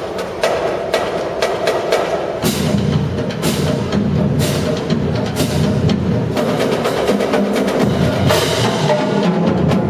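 Marching drumline playing: fast snare-drum patterns, with bass drums joining in about two and a half seconds in and long ringing crashes roughly once a second for a few beats, then once more near the end.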